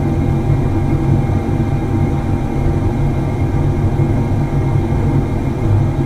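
Factory machinery running with a steady, low, unbroken drone and a few faint steady tones above it.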